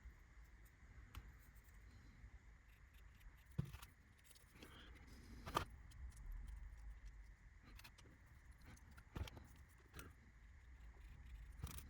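Near-quiet handling of small laser-cut kit parts on a workbench: a few faint, scattered clicks and taps as pieces are picked up and fitted together.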